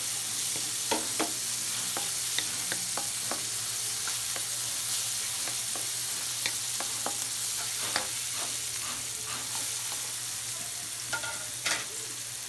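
Chopped garlic and onions sizzling in melted margarine in a metal wok, stirred with a wooden spatula that scrapes and taps against the pan in many short clicks.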